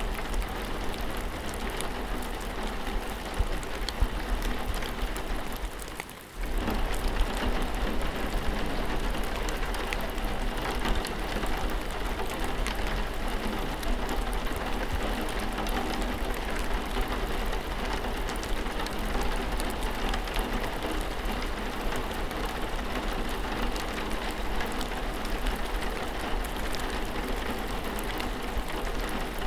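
Steady rainfall, a dense even patter of raindrops, which briefly drops away and returns about six seconds in.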